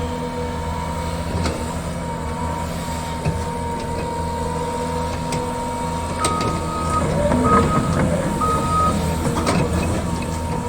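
Caterpillar 320 hydraulic excavator's diesel engine running steadily with a steady whine over its hum. A high-pitched beep sounds three times, short and uneven, a little past the middle.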